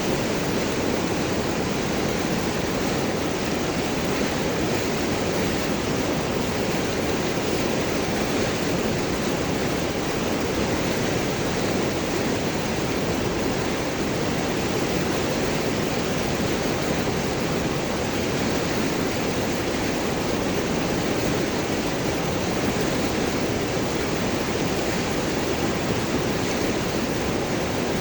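River water rushing and gurgling over and around large rocks, a steady even rush.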